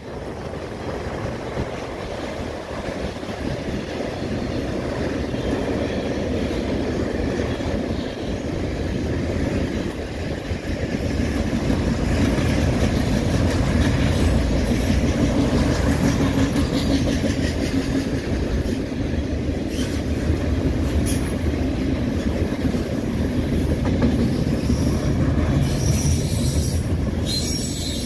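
Freight train of autorack cars rolling past, steel wheels running on the rails in a steady noise that grows louder about a third of the way in.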